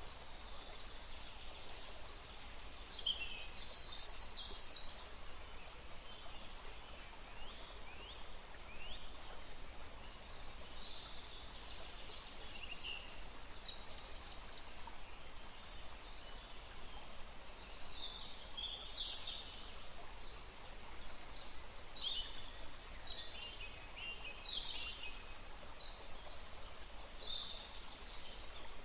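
Songbirds chirping and trilling, many short calls scattered throughout, over a steady rushing background of wind or flowing water.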